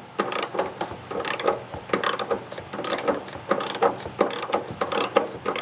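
Hand ratchet wrench clicking in quick, uneven runs as a bolt is worked loose.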